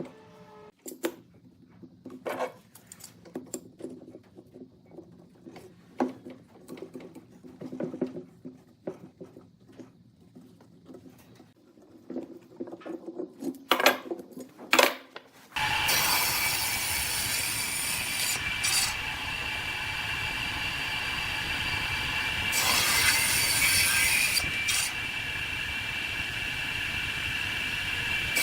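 Wooden pieces handled with scattered light knocks and clicks, then about halfway through a woodworking power tool starts suddenly and runs on steadily with a high whine and a rushing noise as it cuts wood.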